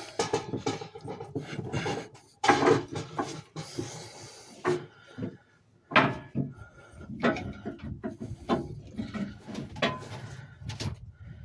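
Irregular knocks, clicks and scrapes of hand work with tools, with two sharper knocks about two and a half seconds and six seconds in.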